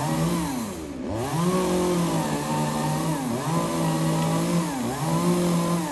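Chainsaw running at high revs, its pitch sagging and climbing back three times, then falling away at the end.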